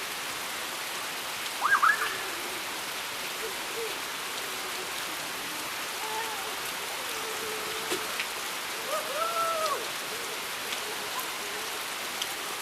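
Steady rain falling, an even hiss throughout. Two brief high-pitched calls rise out of it, one about two seconds in and another near nine seconds in.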